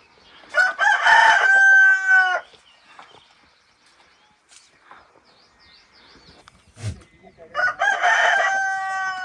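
A rooster crowing twice, each crow about two seconds long and ending on a held note, the second about six seconds after the first. A brief thump falls shortly before the second crow.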